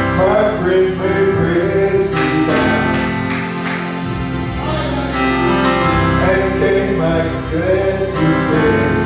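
Live gospel song: a singing voice over keyboard and band accompaniment, with a few sharp percussion strikes about two to three and a half seconds in.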